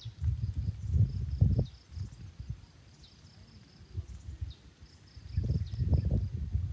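An insect chirping in a quick, regular run of short high notes, with two stretches of low rumbling on the microphone, the louder one near the end.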